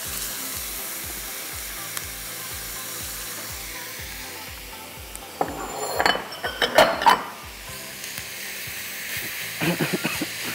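Beef mince frying with onions and garlic in a wok, a steady sizzle. Clinks and scrapes of a spoon and spatula against the bowl and pan come about six to seven seconds in and again near the end.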